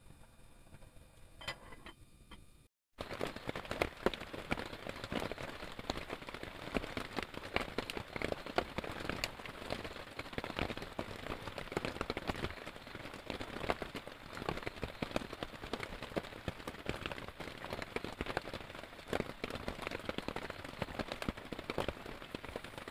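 Heavy rain pattering densely on a surface, a steady hiss crowded with drop impacts. It comes in suddenly about three seconds in, after a quieter stretch and a brief gap.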